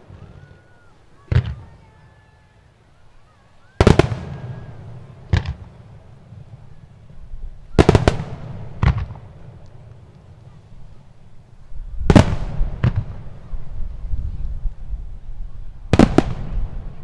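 Aerial firework shells bursting: about eight loud bangs, several in quick pairs, each with an echoing rumble trailing off. A denser low rumble builds under the bursts in the last few seconds.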